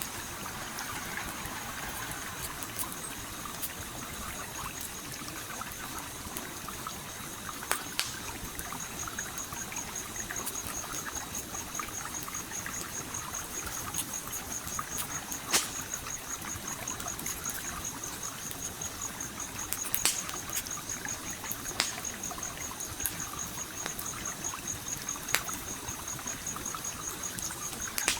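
Stream trickling and flowing steadily, with a campfire crackling over it: a handful of sharp pops a few seconds apart. A high, rapidly pulsing tone sets in about a third of the way through and carries on.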